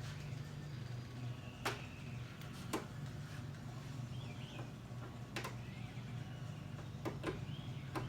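Scattered sharp clicks and knocks, about six, from tools and parts being handled during a car audio install, over a steady low hum.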